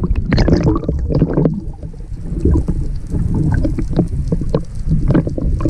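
Water slapping and gurgling against a small boat's hull, with a low rumble and irregular short knocks and splashes.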